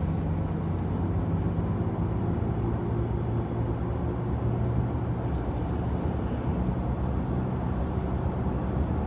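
Semi truck's diesel engine idling, a steady low hum that holds even throughout.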